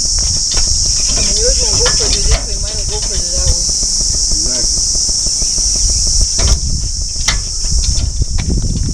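Steady, high-pitched insect chorus shrilling without a break, with a low rumble of wind on the microphone and a few sharp clicks in the second half.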